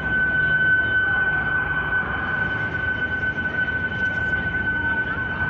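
An alarm sounding one steady, unwavering high tone, over loud street noise.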